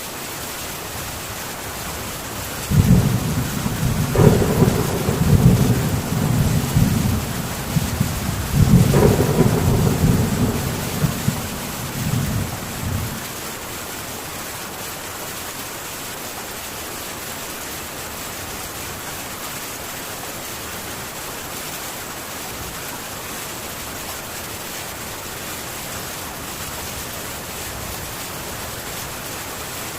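Heavy rain falling steadily on a metal tin roof. A roll of thunder starts about three seconds in and rumbles for about ten seconds, with two louder cracks, before the rain goes on alone.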